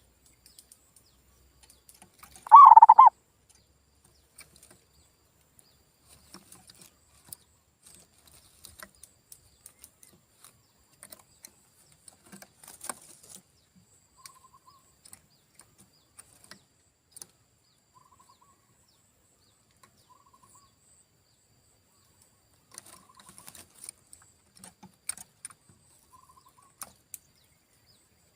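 Zebra dove (perkutut) cooing: one loud, short coo about two and a half seconds in, then only faint, short coos and scattered faint clicks for the rest.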